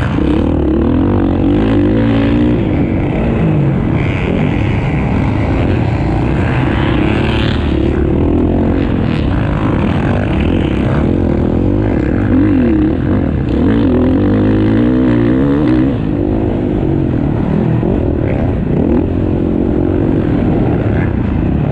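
Several motocross bikes racing on the track, their engines revving up and down as they work through the course.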